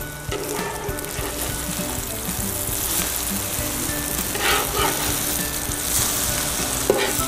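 Small egg-and-greens patties sizzling steadily as they fry in a pan. A metal slotted spatula scrapes against the pan briefly about four and a half seconds in and again near the end.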